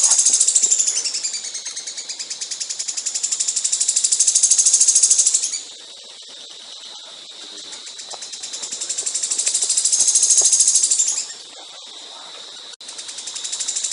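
Songbird singing long, very fast trilled phrases that swell in loudness. The pitch sweeps down and back up about a second in, and the song breaks off briefly twice.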